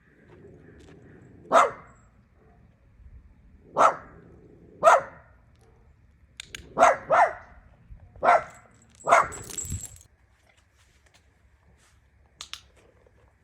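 A dog barking: seven short single barks, spaced about a second apart, over the first ten seconds.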